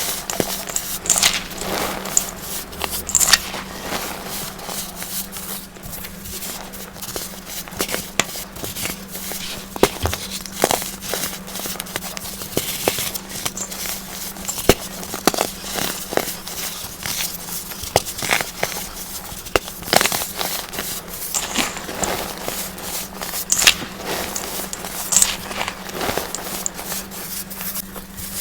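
Compressed baking soda being crushed and crumbled, a dense, irregular run of small crunches and crackles. A steady low hum runs underneath.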